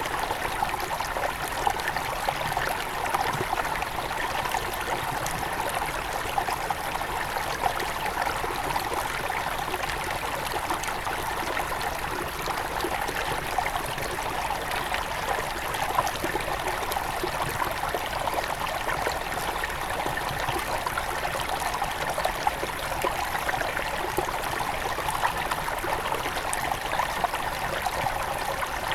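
Small forest river at its headwaters, flowing and trickling steadily over stones, with a busy, splashing burble.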